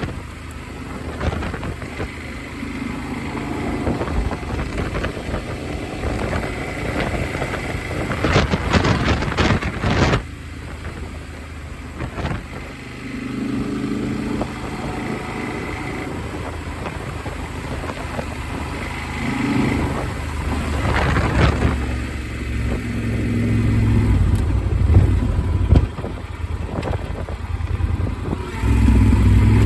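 Motorcycle engine running on the move, heard from a phone in a helmet mount with wind rushing over the microphone in gusts. The engine grows louder in the last few seconds as it pulls harder.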